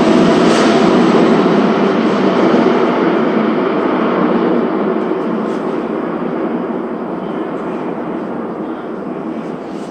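Running noise of a Tokyu 3020 series electric train heard from inside the car, fading steadily as the train slows to a stop at a station.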